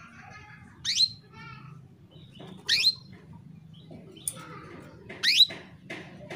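Female domestic canary calling, a female in breeding condition calling to a male. Three sharp, steeply rising chirps come about two seconds apart, with softer twittering between them.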